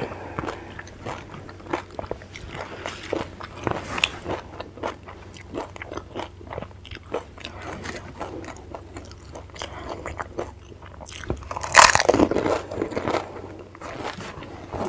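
Panipuri being bitten and chewed close to a clip-on microphone: crisp, hollow fried puri shells filled with spiced green water crunch and crackle in quick irregular bites. About twelve seconds in, the crunching grows louder for about a second.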